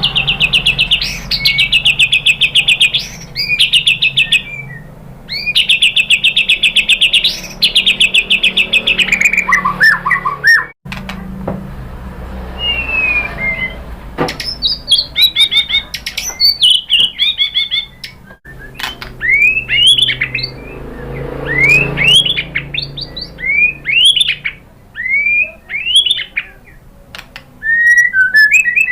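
White-rumped shama singing: two long rapid trills in the first eight seconds, then varied phrases of short upswept whistled notes. The sound drops out briefly about eleven and eighteen seconds in.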